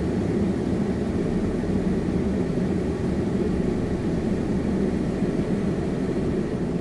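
Steady rush of air from a Tesla Model S's climate-control fan running at a high setting, with a low rumble underneath, heard inside the cabin.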